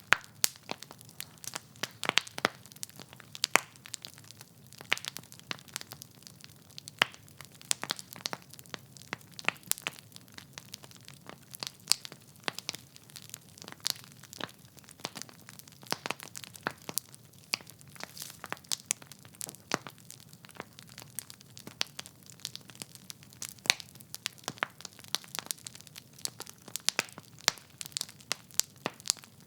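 Wood logs burning in a fireplace, crackling with many irregular sharp pops and snaps over a faint low rush of the flames.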